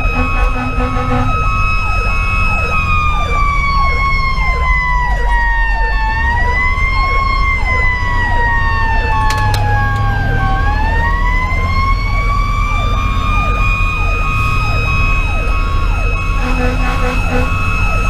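Fire engine sirens over diesel and road rumble: a mechanical siren holds a high wail, winds slowly down over several seconds and climbs back up, while an electronic siren sweeps rapidly underneath. Short pulsing tones come in near the start and again near the end.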